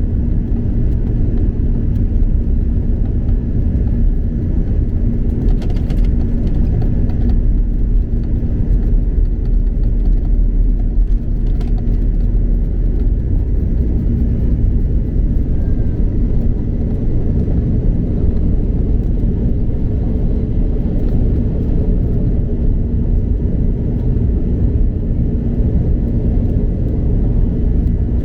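Steady low rumble of an Airbus A330-200 in flight, engine and airflow noise heard inside the passenger cabin, with a faint steady hum under it.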